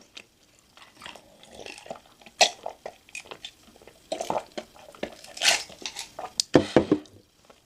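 Close-miked eating sounds: irregular bites and chewing, with a louder cluster of mouth sounds near the end.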